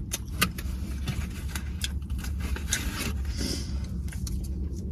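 Eating and handling chicken wings and their takeout container: scattered small clicks and crackles, the sharpest about half a second in, and a short hiss near the end, over a steady low rumble.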